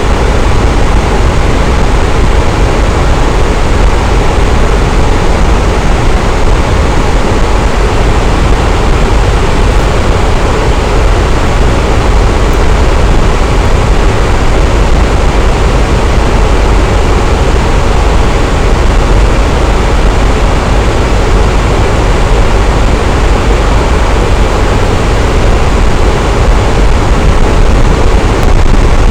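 Electric fan running steadily: a constant airy whoosh with a deep low hum, no changes or breaks.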